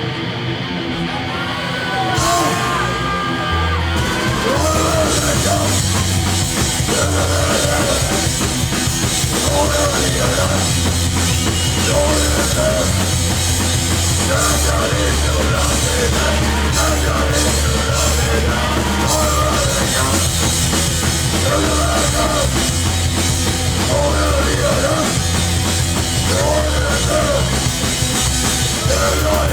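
Live hardcore punk band playing loud: distorted guitar, bass and drums with yelled vocals. The song builds over the first few seconds before the full band comes in about four seconds in.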